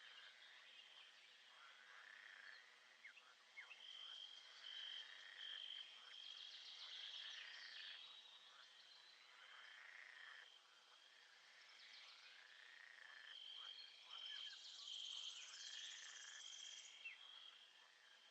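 Faint nature ambience of a frog and insect chorus: a steady pulsing trill with many overlapping chirps and short trills over it.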